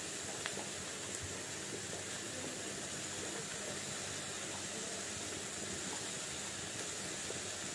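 Soft, steady hiss of dal and diced vegetables frying on a low flame in a metal kadai.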